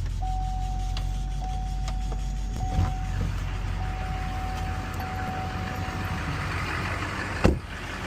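6.6-litre V8 Duramax turbodiesel running just after a cold start, a steady low rumble, while a high dashboard warning chime tone sounds for about six seconds. A single sharp knock comes near the end.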